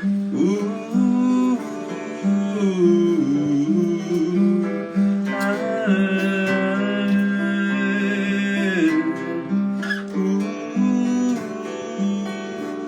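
Acoustic guitar playing a repeating picked pattern, with a wordless melody line gliding and wavering in pitch over it.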